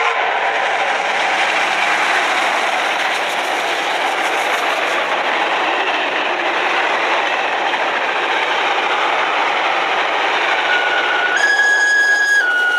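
A long steam-hauled passenger train passing close by: a steady, loud rumble and clatter of wheels on the rails. About eleven seconds in, a horn starts sounding, stepping between pitches.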